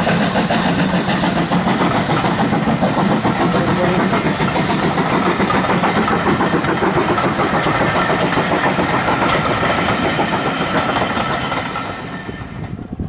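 Steam locomotive and its train running past, loud and steady, then dying away near the end as it moves off.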